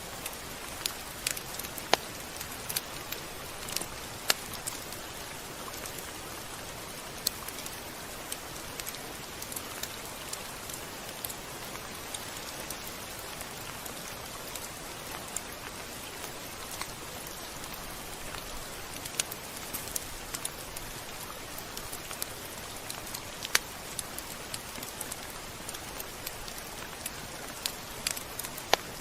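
Steady rain falling, an even hiss with scattered sharp drop ticks at irregular times, a few of them louder.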